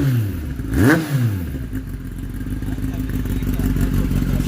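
Kawasaki ZX-10R's inline-four through an aftermarket full-system exhaust, given two quick throttle blips that rise and fall in pitch, the second about a second in, then settling to a steady idle.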